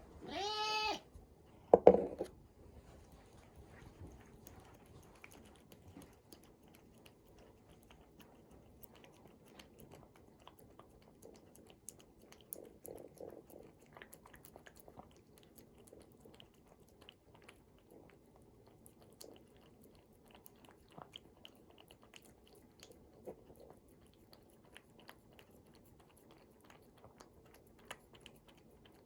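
A cat gives one meow, rising then falling in pitch, right at the start, followed about a second later by a short louder sound. After that come faint, scattered chewing and crunching sounds with small clicks.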